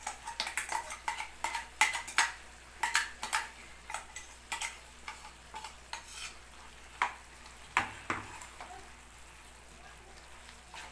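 A spoon scraping and knocking against a pan while stirring chicken with a freshly added ground masala paste, over a faint sizzle of frying. The strokes come quickly at first, thin out after about five seconds and stop about eight seconds in.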